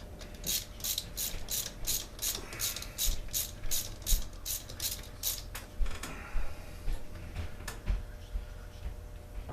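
Ratchet wrench clicking in an even run of about three to four clicks a second for about five seconds, as it works a fastener during a chainsaw teardown, followed by a few scattered light knocks.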